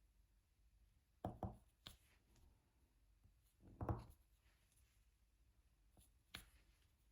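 Quiet, scattered taps and clicks of a diamond painting drill pen placing resin drills on the canvas: a pair of taps, a single tap, a slightly longer and louder one near the middle, then two light clicks near the end.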